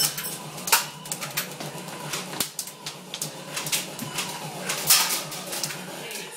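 Scattered sharp clicks and snaps, irregularly spaced, the loudest about five seconds in.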